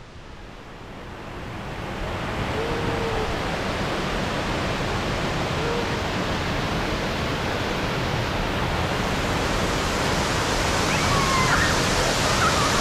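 Steady rush of falling water from a waterfall, fading in over the first two seconds.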